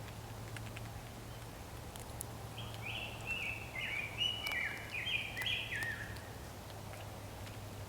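A bird calling: a quick, jumbled run of about a dozen short, clear whistled notes stepping up and down in pitch, lasting a few seconds in the middle, over a low steady hum.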